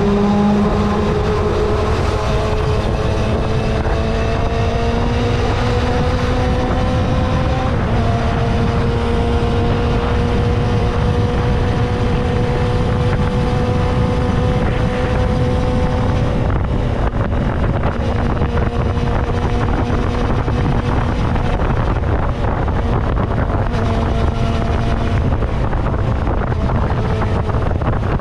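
Kawasaki motorcycle engine pulling under way, its pitch slowly climbing, with a step as it changes gear about eight seconds in. About halfway through the engine note eases off and the rush of wind on the microphone takes over.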